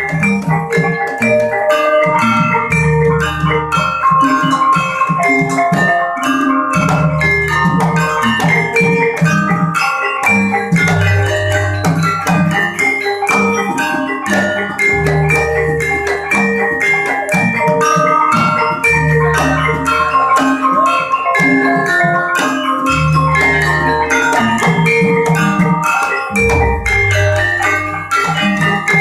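Gamelan music: dense, quick runs of tuned mallet percussion over deep notes held for a second or two at a time.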